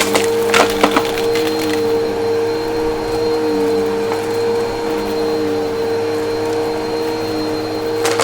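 Vacuum cleaner running with a steady whine while crunchy debris crackles and rattles up through it, in clusters about half a second to a second in and again near the end.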